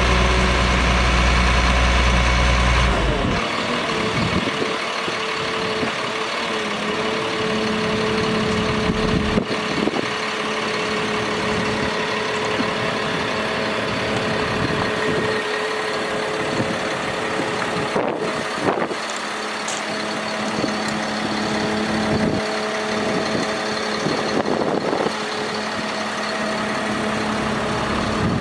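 Bucket truck's engine running steadily with a constant hum. A deep low rumble drops away about three seconds in.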